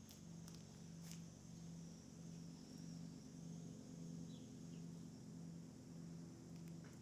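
Faint outdoor ambience: a steady high insect drone, with a low hum that pulses about one and a half times a second and a few light clicks.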